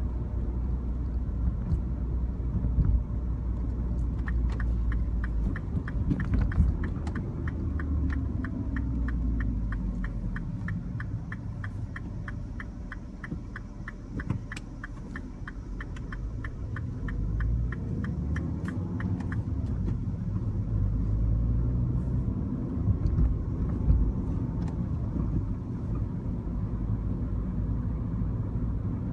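Mini Cooper with a manual gearbox driving along, its engine and the road making a steady low rumble that rises and falls gently with speed. A regular ticking, about two to three a second, runs from about four seconds in until about nineteen seconds.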